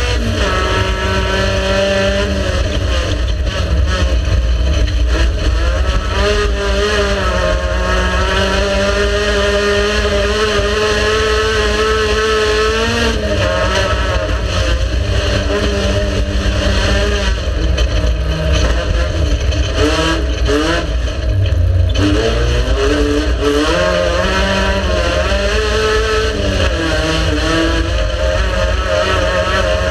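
Race car engine running hard, its pitch repeatedly climbing and dropping as the driver accelerates, shifts gear and lifts off.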